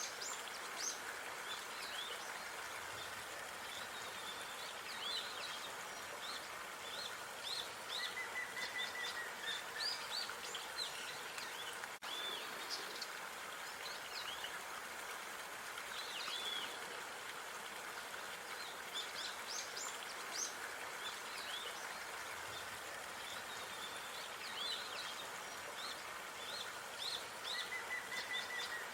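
Outdoor park ambience: many small birds chirping and calling over a steady background hiss, with a short trilling call about eight seconds in and again near the end.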